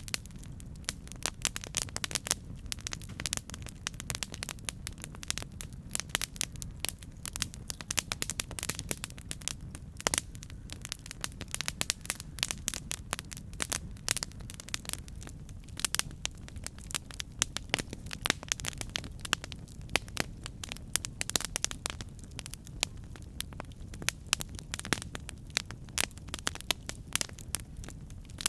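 Campfire crackling, with many irregular sharp pops and snaps a second over a steady low rumble.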